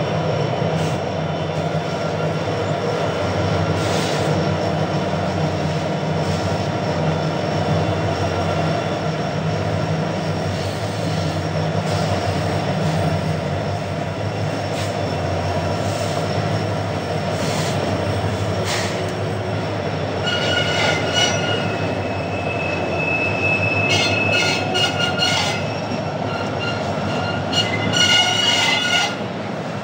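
Freight train rolling past: a steady diesel locomotive hum in the first half, wheels clicking over rail joints, and high wheel squeal in repeated bursts from about two-thirds of the way in.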